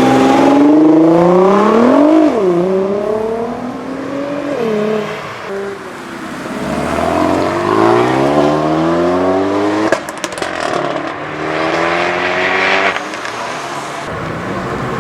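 Modified cars' engines revving and accelerating away. The pitch climbs and drops several times with revs and gear changes, and there are a few sharp crackles about ten seconds in.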